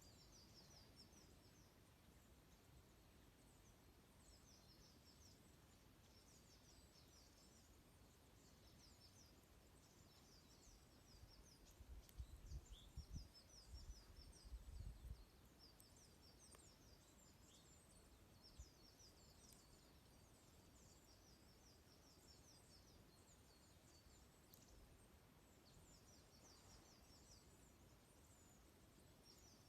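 Small songbirds twittering in short, high, repeated chirps, faint against a quiet background hiss. About twelve seconds in, a few seconds of low rumbling thumps.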